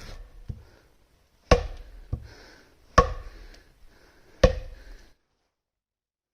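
Three sharp chopping strikes about a second and a half apart, each with a short ring. The sound cuts off abruptly soon after the third.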